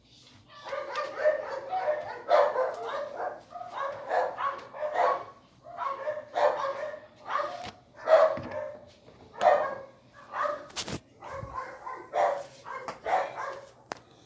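A dog barking over and over in runs of short barks.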